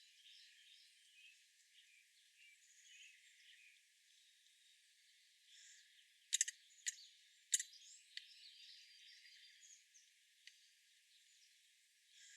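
Faint chirps of small wild birds, with a few sharp, short clicks close together about six to eight seconds in.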